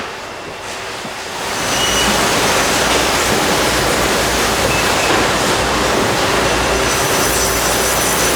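Snack-factory machinery running: a steady mechanical rush that swells up about a second and a half in and then holds level.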